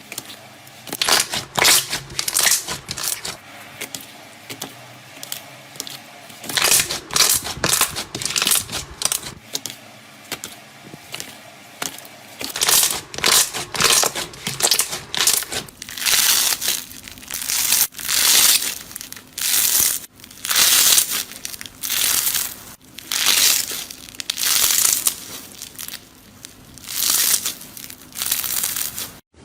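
Something crunchy being crushed by hand again and again, each squeeze giving a short crackling burst. The bursts are quick and close together at first, then come about once a second.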